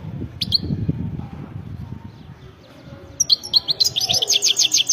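European goldfinch: a single chirp about half a second in, then from about three seconds in a fast, twittering run of repeated high notes that lasts to the end.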